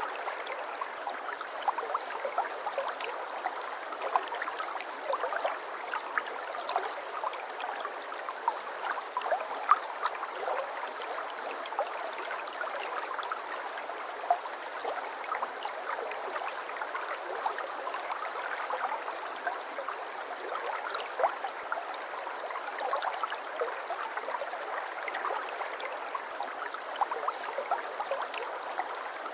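Babbling brook: shallow water running and gurgling steadily over stones, with many small splashes and trickles.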